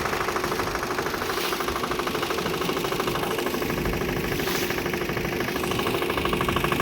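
Motorboat engine running steadily with a fast, even pulsing beat.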